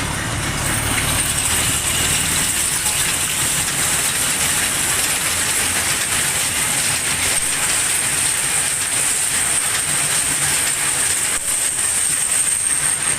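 Small amusement-ride train running along its circuit, a steady rattling run noise with a thin high whine held over it.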